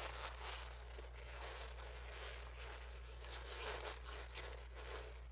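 Flexible insulated ductwork crinkling and rustling as it is pushed and worked by hand, its plastic jacket and inner tubing rubbing while the tubing is forced inside another duct.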